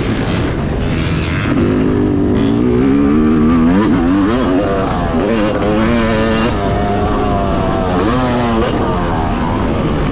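2021 Yamaha YZ250 single-cylinder two-stroke motocross engine revving hard on a track. Its pitch climbs and drops back several times as the throttle is opened and shut.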